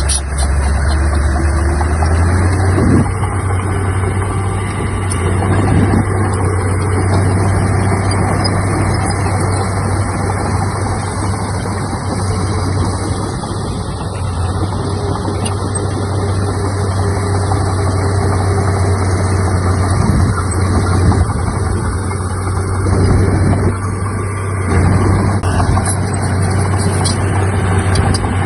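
Heavy earthmoving machine's diesel engine running steadily with a deep low drone, swelling briefly now and then.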